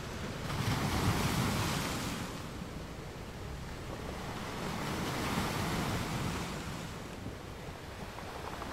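Atlantic sea waves washing and surging, with wind noise on the microphone; the surf swells up twice.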